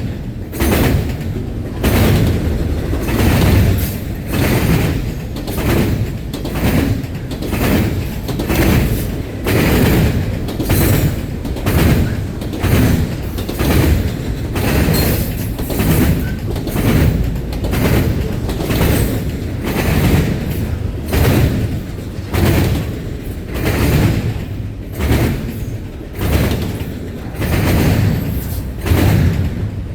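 Cars of a CSX intermodal freight train rolling past, their wheels clattering over rail joints in a steady, evenly repeating rhythm of heavy knocks.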